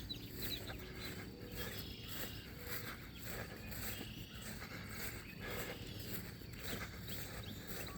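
Quiet outdoor ambience: faint insects chirping steadily, with a few soft footsteps.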